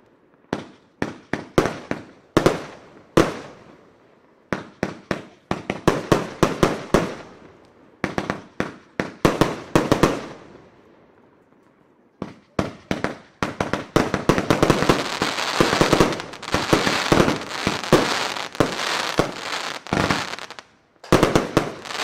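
J-Fireworks Funky Monkey firework battery firing: quick groups of launch thumps and bursting reports, with a short lull about ten seconds in. From about fourteen seconds in, a denser, almost continuous stretch of rapid reports follows, and a last group comes near the end.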